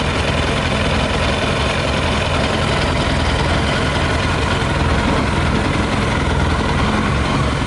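Yamaha YZF 600R's inline-four engine idling steadily while running on 40% whisky poured into the tank in place of petrol.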